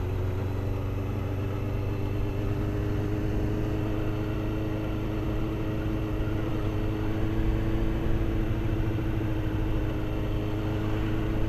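Motorcycle engine running steadily at low, unchanging revs, close to idle.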